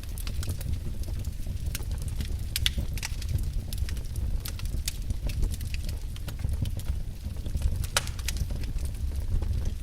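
Wood fire burning in a fireplace, with a steady low rumble of the flames and irregular sharp crackles and pops from the burning logs.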